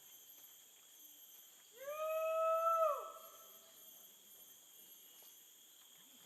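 A single drawn-out animal call lasting about a second, beginning about two seconds in; its pitch rises quickly, holds steady, then drops away at the end.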